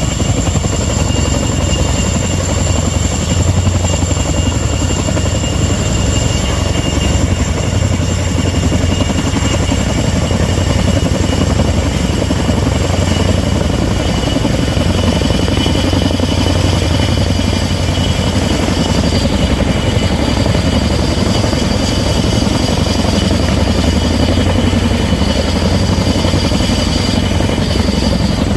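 Helicopter running steadily: a loud, constant deep drone with a thin high whine over it, unchanging throughout.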